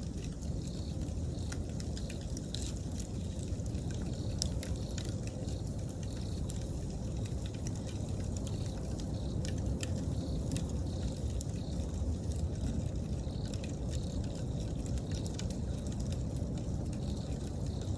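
Wood campfire burning, with scattered sharp crackles and pops over a steady low rumble. Autumn insects chirp faintly in an even, pulsing rhythm behind it.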